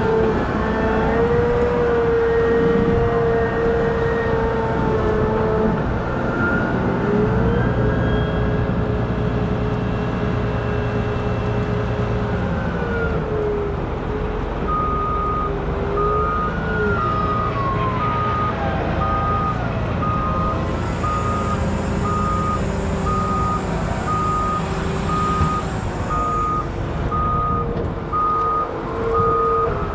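Wheel loader's diesel engine working, its pitch rising and falling as it revs up and down. From about halfway a reversing alarm beeps steadily.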